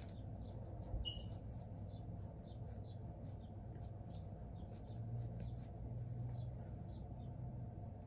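A bird chirping over and over: short chirps falling in pitch, about two a second, faint over a low steady hum.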